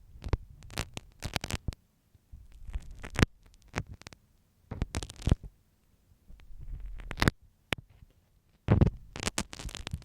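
Marking pin (dressmaker's pin) scratching and tapping right at an ear-shaped microphone, in irregular clusters of quick strokes with short pauses between them, a low rumble under the strokes.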